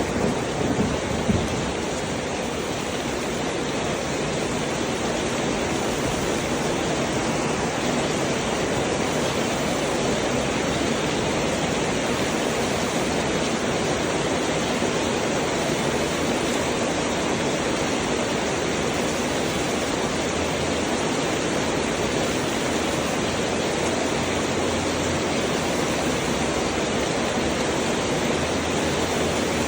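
Heavy rain falling steadily, a dense, even hiss. The tail of a thunderclap dies away in the first couple of seconds.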